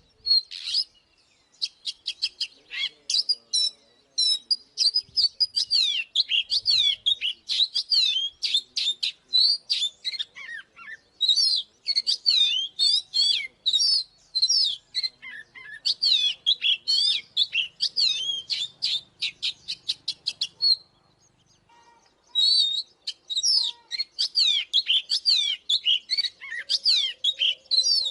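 Oriental magpie-robin singing a fast, varied run of short whistled notes that glide up and down, with a break of about a second and a half roughly three-quarters of the way through before the song starts again.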